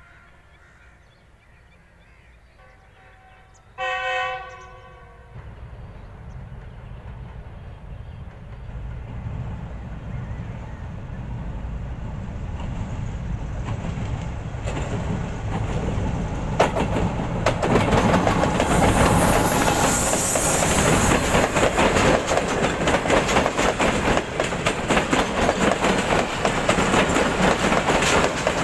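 GEU-40 diesel-electric locomotive approaching with a passenger train: faint horn tones at first, then a short loud horn blast about four seconds in. After that the train's rumble grows steadily louder as it nears and passes, with wheels clattering over the rail joints as the coaches go by.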